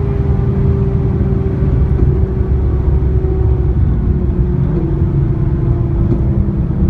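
Seat Leon Cupra's loud exhaust and engine running hard at a near-steady pitch, which dips slightly about four seconds in, over a heavy low rumble of road noise.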